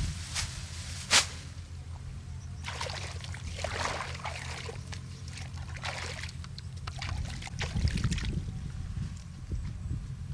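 A steady low hum with water sloshing and splashing, and one sharp knock about a second in.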